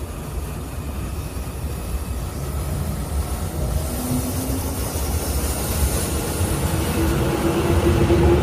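A train approaching along the tracks, its rumble growing steadily louder. A short tone comes in about four seconds in, and a steady hum takes over from about seven seconds.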